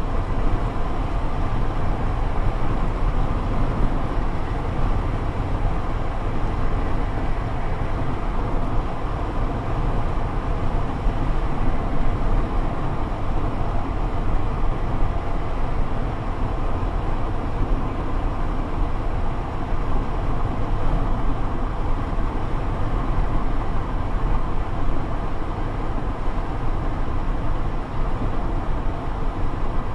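Squall-line wind gusting over the microphone: a loud, steady rushing rumble, heaviest in the low end.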